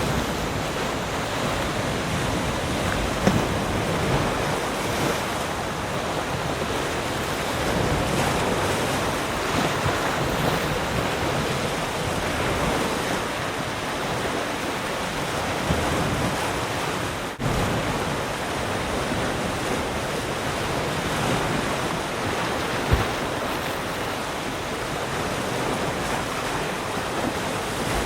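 Ocean waves washing onto a shore: a continuous rush of surf that swells and ebbs slowly. The sound drops out for a moment about two-thirds of the way through.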